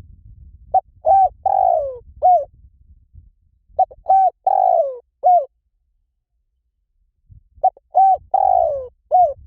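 Spotted dove cooing: three phrases about three to four seconds apart, each of four short coos, the third coo the longest and sliding down in pitch.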